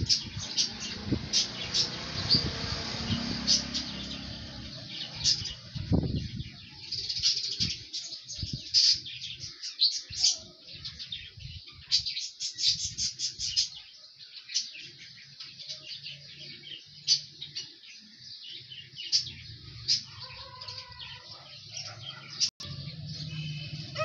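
Small birds chirping repeatedly in short high notes, with a quick run of chirps about halfway through.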